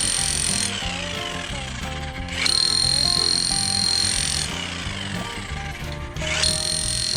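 Electric demolition hammer (Bosch GSH 5 X) running in spells of about two seconds with a high whine. It stops just under a second in, starts again sharply about two and a half seconds in, stops after two seconds and starts once more near the end. Background music plays throughout.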